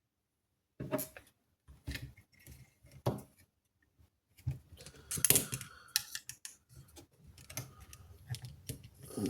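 A screwdriver and parts clicking, tapping and scraping against a PS5 Slim power supply circuit board, working at the glue that holds the capacitor. The clicks are irregular and start just under a second in, with the loudest cluster about five seconds in.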